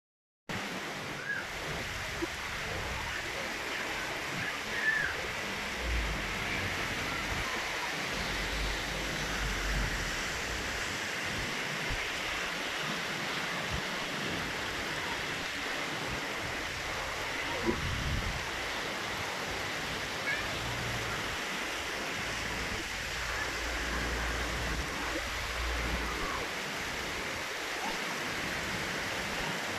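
Heavy rain falling steadily, a dense even hiss, with a few brief low rumbles.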